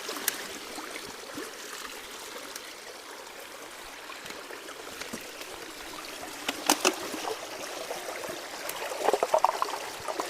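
Storm water running and trickling through a roadside culvert. A couple of sharp clatters come about seven seconds in, and a quick run of clatters near the end.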